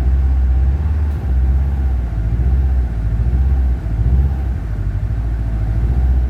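Subaru STI's 2.5-litre turbocharged boxer engine idling steadily while warming up, a deep low-pitched running sound.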